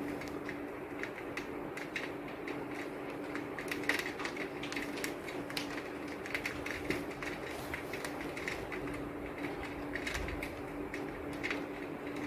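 Rain falling, with close drops tapping irregularly over a steady patter. A faint steady hum runs underneath.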